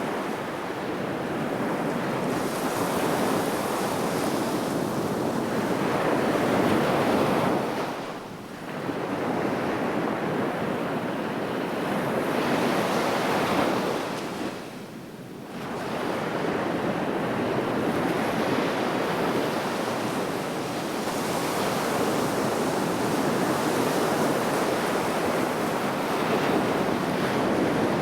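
Sea waves breaking and washing on the shore in continuous surf that swells and ebbs, dropping off briefly twice between waves, with some wind on the microphone.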